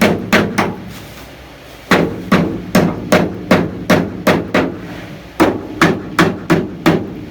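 Hammer banging down protruding nails in a wooden pallet: runs of sharp blows about two to three a second, broken by two short pauses.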